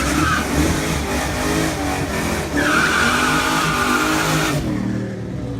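Race car doing a burnout: the engine runs at high revs while the drive tyres spin and squeal. The squeal grows strong about two and a half seconds in and stops abruptly about four and a half seconds in.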